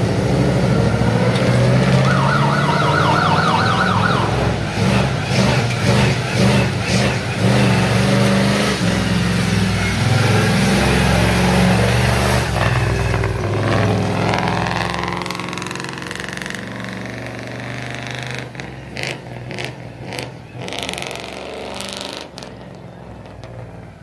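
Monster truck engine running loud, with a brief warbling whine a few seconds in and a rising rev about two-thirds of the way through. It then eases off, with several sharp knocks near the end.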